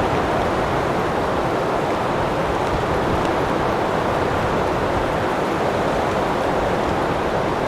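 Strong wind blowing steadily, a constant rushing noise with a fluttering low rumble of wind buffeting the microphone.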